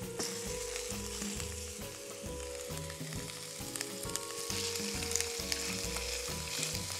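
Raw pork, bacon and pepper skewers sizzling in hot oil in a frying pan, a steady hiss with scattered fine crackles as they sear.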